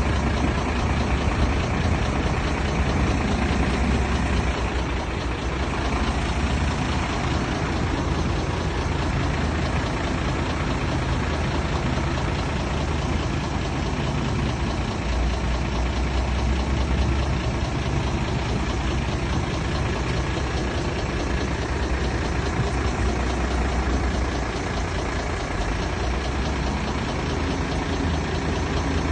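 Heavy diesel engine of a construction machine running steadily, its low note shifting slightly now and then.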